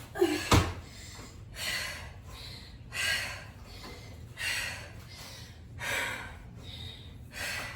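A woman breathing hard and panting, five loud exhalations about a second and a half apart as she recovers from a set of bunny hops, with a thud from the last landing about half a second in.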